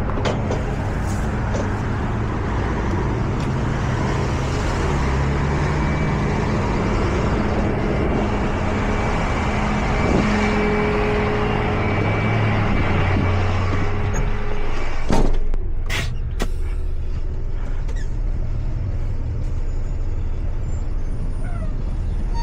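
Tow truck running, with steady engine and road noise; a few sharp clicks about fifteen seconds in, after which the noise dies down.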